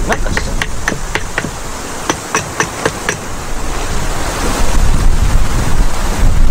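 A run of quick, light taps, about three a second, that stops about three seconds in, over a steady outdoor rush of wind. Wind buffeting the microphone makes a heavier rumble near the end.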